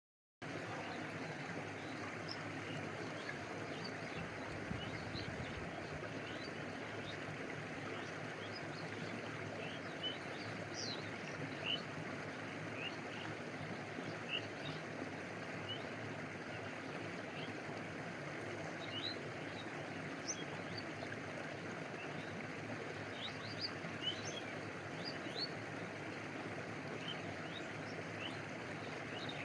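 Stream water flowing and lapping steadily, with scattered short high plinks over it. It starts suddenly out of silence about half a second in.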